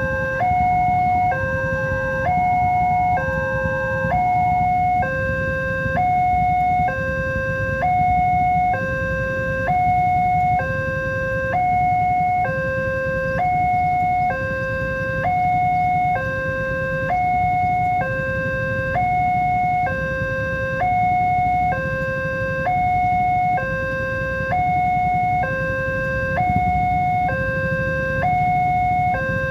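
Indonesian railway level-crossing alarm sounding an electronic two-tone warning, alternating high and low about once a second, the signal that a train is approaching and the barriers are down. A steady low rumble runs underneath.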